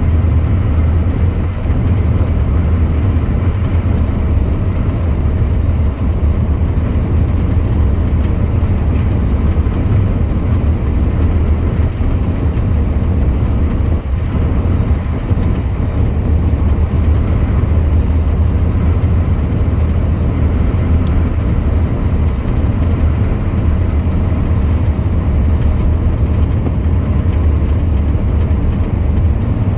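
Truck on the move: a steady, loud, low drone of engine and road noise that holds even throughout.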